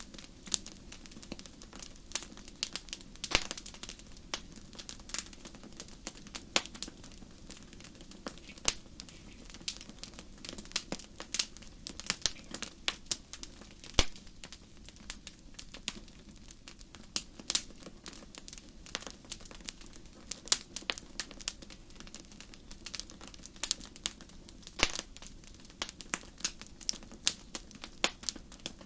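Wood fire crackling in a fireplace: a steady low rumble of flames with dense, irregular sharp pops and snaps, one louder pop about halfway through.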